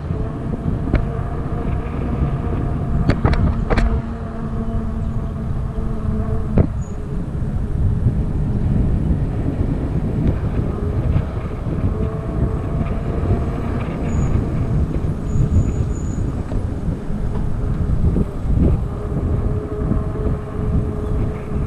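Wind rumbling over the microphone on a moving electric bike, with a faint steady whine underneath. A few sharp clicks come in the first seven seconds.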